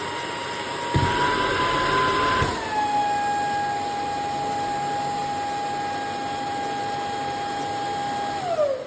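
The self-emptying dock of a Tapo RV20 Max Plus robot vacuum runs its suction motor to empty the robot's dustbin, a loud steady whine with two knocks about a second and two and a half seconds in, after which the pitch drops a little. Near the end the motor spins down with a falling whine as the emptying cycle finishes.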